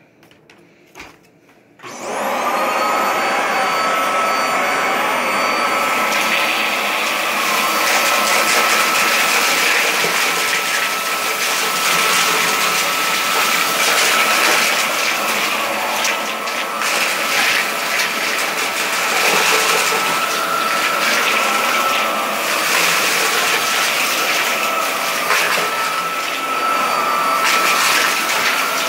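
Vacuum cleaner switched on about two seconds in, its motor spinning up to a steady high whine. It runs over shag carpet sucking up spread-out test dirt, with scattered crackles of debris going up the hose.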